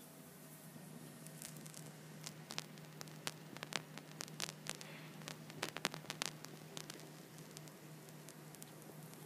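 Irregular crackling and snapping of a high-voltage arc from a ZVS-driven microwave oven transformer, busiest in the middle and dying away, over a steady low hum.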